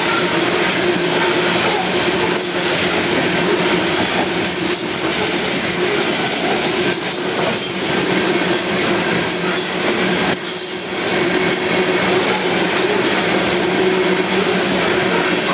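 Coal train's open-top coal cars rolling past at speed: a steady rumble of steel wheels on rail with a steady tone running through it and a few faint clacks.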